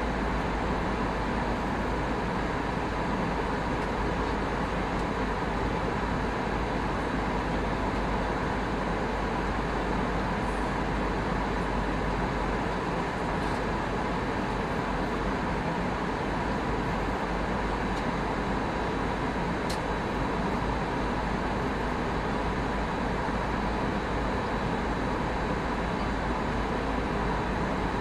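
Steady cabin noise inside an Airbus A319 airliner: the even rush of engines and airflow, with a faint steady tone running through it.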